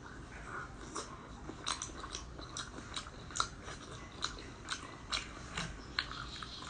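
Close-miked chewing of sauced abalone: a steady run of sharp mouth clicks and smacks, about two or three a second.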